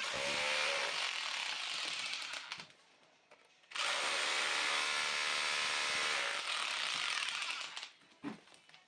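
A power tool working into an old brick wall, run in two stretches: about two and a half seconds, a short pause, then about four seconds more, with a steady motor whine under a loud hiss.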